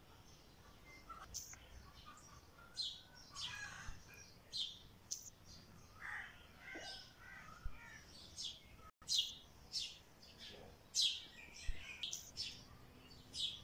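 Small birds chirping: many short, high chirps, one every half second or so, with a brief gap in the sound about nine seconds in.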